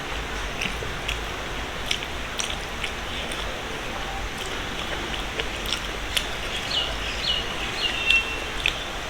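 Chewing and soft mouth clicks of someone eating a rice meal, scattered over a steady hiss of background noise, with a few short high chirps near the end.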